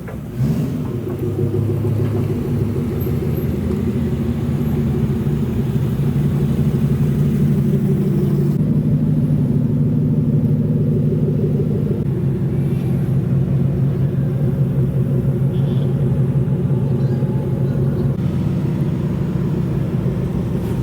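Exhaust of a modified car running at low, steady engine speed, with no revving.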